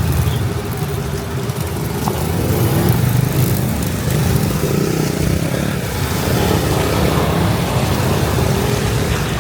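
Motorbike engine running steadily on the road, under an even hiss of wind and road noise.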